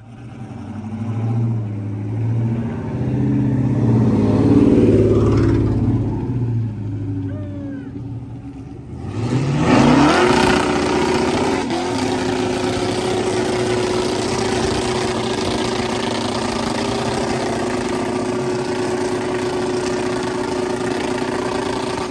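Vehicle doing a burnout to use up the last tread on its tires. The engine runs with surges at first, then revs up about nine seconds in and holds a steady high rev, with the hiss of spinning tires over it.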